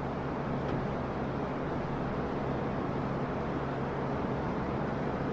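Steady background machine noise: an even hiss with a constant low hum, unchanging throughout.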